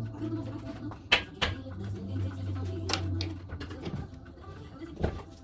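A low steady hum for the first few seconds, with four or five sharp knocks spaced about a second apart.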